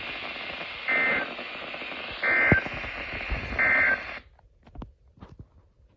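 NOAA Weather Radio receiver hissing with static, broken by three short, loud digital data bursts about a second and a half apart: the SAME end-of-message code that closes a severe thunderstorm warning. The static cuts off suddenly about four seconds in, leaving a few faint clicks.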